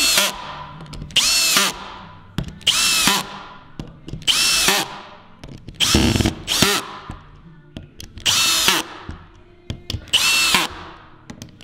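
Cordless drill driving screws into wooden planks one after another: about eight short bursts, each a motor whine that spins up and drops off, one to two seconds apart.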